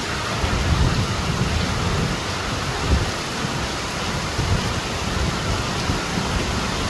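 Steady heavy rain falling: an even, unbroken hiss with a low rumble underneath.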